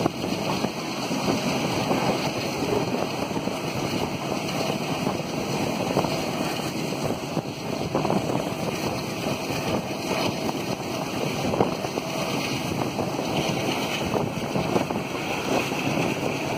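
Diesel-hauled passenger train in motion, heard from on board: steady wheel and rail running noise with wind buffeting the microphone, and a few faint knocks through it.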